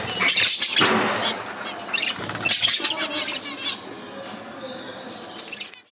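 Budgerigars chirping and warbling in busy, overlapping chatter. The chatter drops to a quieter level past the halfway point and cuts off suddenly just before the end.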